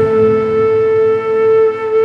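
Background music: a flute holding one long steady note.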